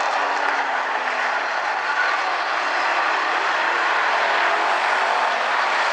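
Several hobby stock race cars' engines running at speed around an oval track: a steady drone, with a pitch sliding down about a second in.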